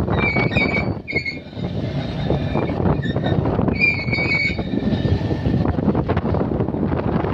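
Purse-seine fishing boat's engine and deck machinery running steadily with clattering knocks, and a high-pitched squeal near the start and again about four seconds in.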